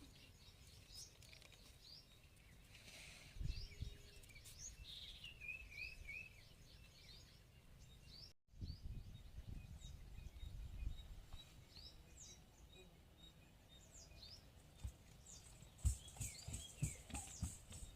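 Small bird chirping faintly: many short, high chirps, with a quick falling run of notes about five seconds in. A few low thumps near the end.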